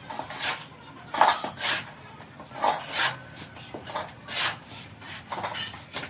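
Repeated rasping strokes of a hand tool scraping or filing a workpiece, irregular, about one or two a second.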